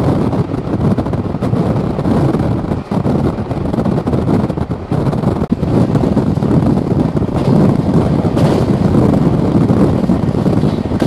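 Indian Railways express passenger coach running at about 125 km/h, heard from its open doorway: a loud, steady rush of wind mixed with the rumble of wheels on rail.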